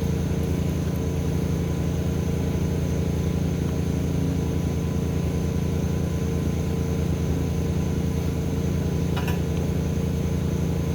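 Steady low machine hum, even in level throughout, with a few faint clicks about nine seconds in.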